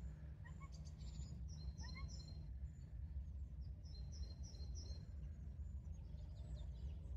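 A songbird singing outdoors: two quick phrases of four or five short high chirps, about a second and a half in and again about four seconds in, with a few lower rising notes early on, over a low steady rumble.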